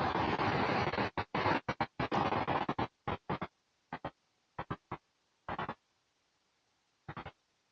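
Rushing noise of Autobahn traffic and wind on the microphone, steady for about a second, then chopped into short bursts that cut out to dead silence, with only a few brief bursts after about three seconds.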